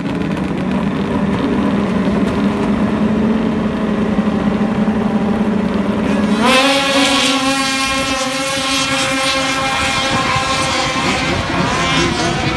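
Two-stroke snowcross race sled engines running at a steady note. About two-thirds of the way through, the sound jumps to a higher, louder, brighter engine pitch and holds there.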